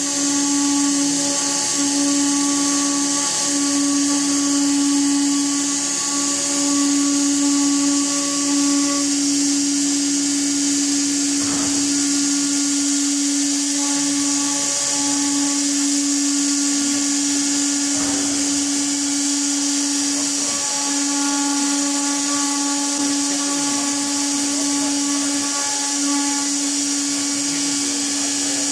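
Woodworking machine's electric motor running steadily, a constant hum under a high whine and hiss, with a couple of faint clicks.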